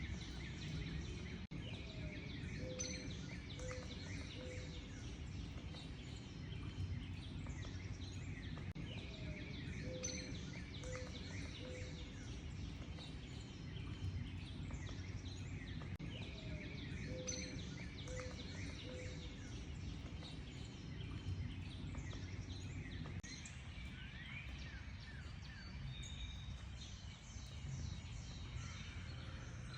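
A chorus of several wild birds chirping and singing, with high twittering calls throughout. A lower three-note call comes back about every seven seconds. A steady low rumble of background noise lies underneath.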